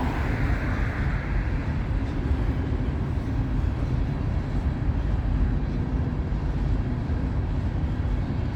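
Steady low rumble of a CSX freight train rolling past.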